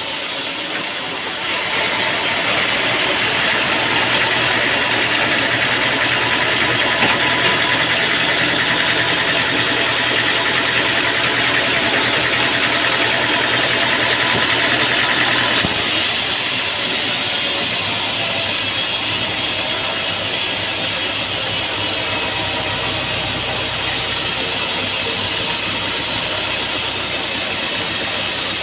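Sawmill machinery running steadily. It grows louder and harsher about a second and a half in, then changes abruptly about halfway through to a slightly quieter, steady running noise.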